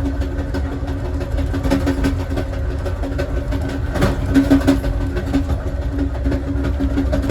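Southwest Chief passenger train running on the rails, heard from inside its last car: a steady low rumble with a constant hum, and a short clatter about four seconds in.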